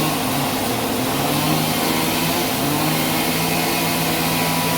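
Sawmill machinery running steadily: an engine-like hum with a dense hiss over it.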